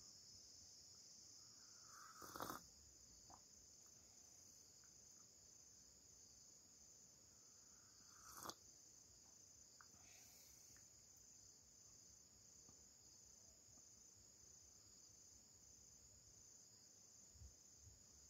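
Insects trilling steadily in one high, continuous, slightly pulsing note, with two brief knocks about six seconds apart near the start.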